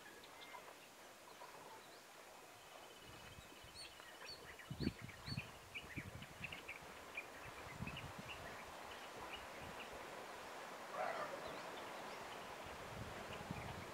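Small birds chirping and calling over faint outdoor ambience, with a short trill about three seconds in. A few soft low thumps come around five seconds in, and there is a brief noisy rustle near eleven seconds.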